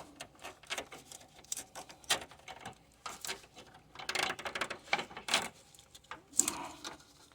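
Irregular clicks, scrapes and small rattles of a spring-type radiator hose clamp being worked onto the hose with a cable-operated clamp tool, with a few sharper clicks spread through it.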